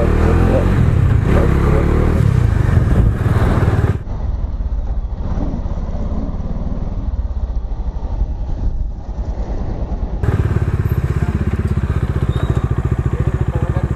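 Bajaj Dominar 250's single-cylinder engine running under a riding motorcycle, with road and wind noise. It is loud for the first few seconds, drops back for several seconds, then comes up loud again about ten seconds in.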